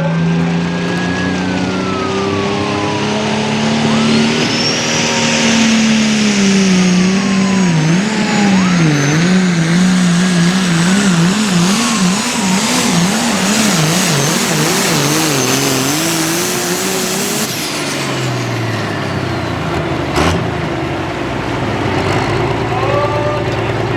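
Turbocharged diesel pulling tractor running at full throttle under load, its engine pitch wavering rapidly up and down, with a high whistle over it. About seventeen seconds in the engine drops back to a lower, steady idle, and a sharp knock comes a few seconds later.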